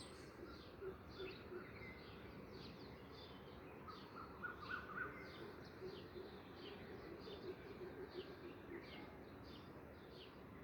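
Birds chirping: many short, high, falling chirps about twice a second, with a brief lower trill about four seconds in, over a steady background hiss.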